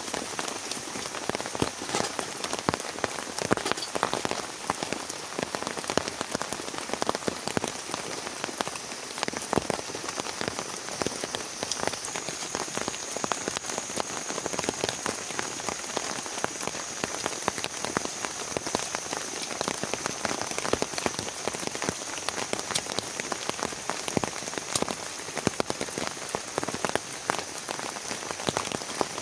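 Heavy rain falling steadily, with many sharp individual drops hitting a nearby surface.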